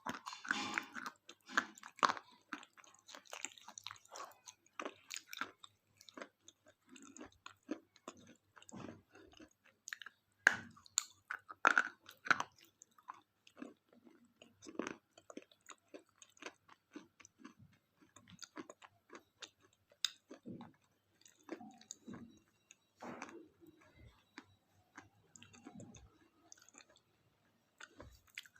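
Close-up chewing and crunching of KitKat chocolate wafer: irregular crisp crackles, with a few louder bites along the way.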